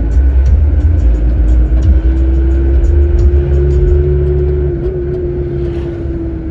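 Motor vehicle running, a heavy low rumble with an engine hum that slowly rises and then eases in pitch.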